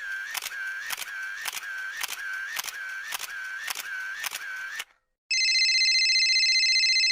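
Two stock sound effects in a row. First comes a rhythmic clicking, about two clicks a second over a steady tone, for nearly five seconds. After a short gap, a steady electronic buzzing tone sounds for about two seconds.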